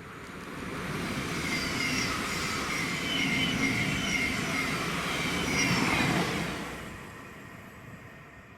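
A train passing through at speed: its noise swells over the first couple of seconds, is loudest around six seconds in, then fades away.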